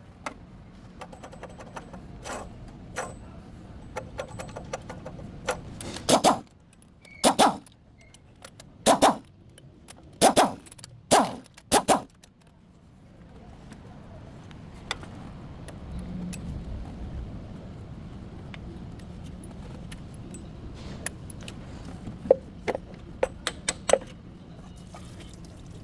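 Metallic jangling and clanking: a run of sharp clicks and several loud short clanks, then a steady low hum sets in about halfway, with a few more clicks near the end.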